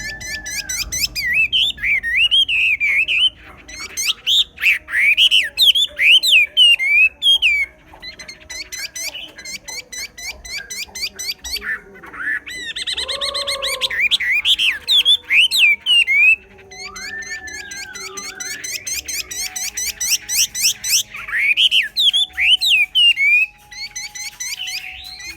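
Chinese hwamei singing a loud, varied song of slurred whistles and fast repeated notes, in long phrases broken by short pauses.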